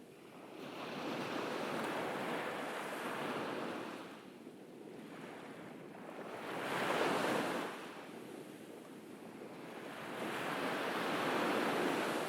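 Ocean waves breaking and washing on a beach, swelling and fading three times; the wave near the middle is the loudest and briefest.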